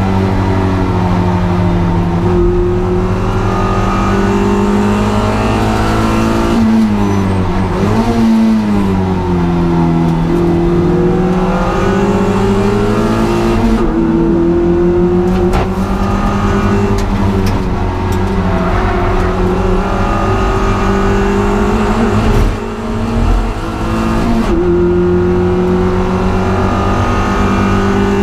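Race car engine held at high revs with a steady note. The revs drop and climb back about a third of the way in, and there is another brief dip near the end.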